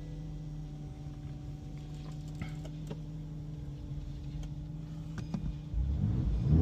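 Car cabin with a steady low hum and a few light clicks. About six seconds in, the BMW X6M's twin-turbo V8 fires up on a cold start with the valved exhaust open, and the low rumble jumps sharply in level.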